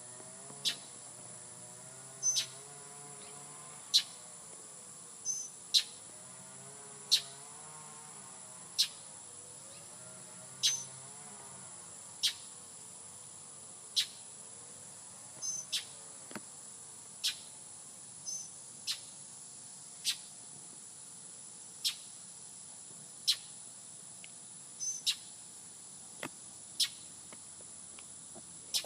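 Steady high-pitched drone of insects, crickets among them, in a field. Over it come sharp short chips or clicks, roughly one every second and a half.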